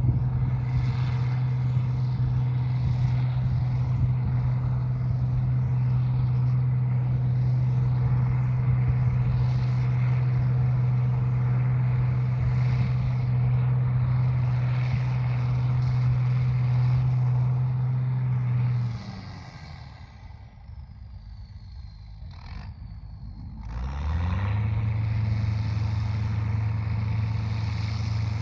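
A farm machine's engine runs at a steady speed, then drops away about two-thirds of the way through with a thin falling whine. A few seconds later it picks up again, rising in pitch and settling back to a steady run.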